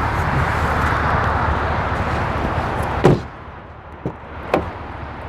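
A 2018 GMC Yukon Denali's door is shut with one sharp thud about three seconds in, after a stretch of steady outside noise that drops away once the door closes. Two light latch-like clicks follow.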